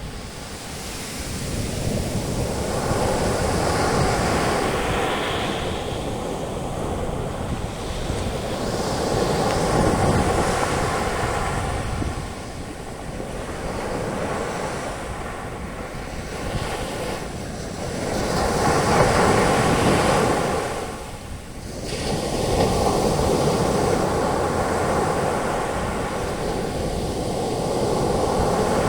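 Ocean waves breaking on a beach and their foam washing up the sand, the surf swelling and easing in repeated surges a few seconds apart, with some wind on the microphone.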